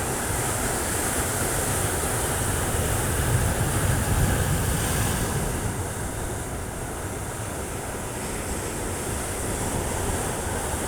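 Sea waves washing onto a rocky beach. The surf swells about four seconds in and eases off again.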